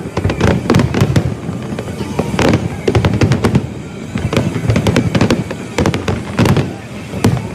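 Fireworks going off in rapid, irregular succession: many sharp bangs and crackles over a continuous low rumble.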